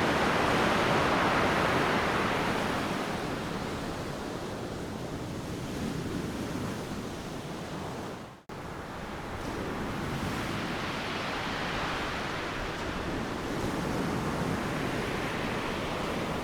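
Ocean waves breaking and washing up the beach: a wash that is loudest at the start and fades over a few seconds, then further waves swelling in. The sound cuts out for an instant about halfway through.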